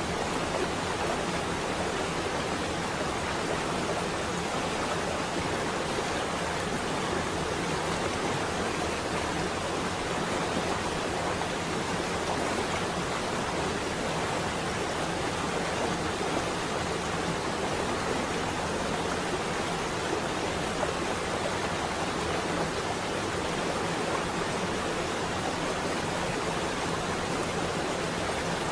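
Steady rain falling on a window, a dense, even hiss with no thunder.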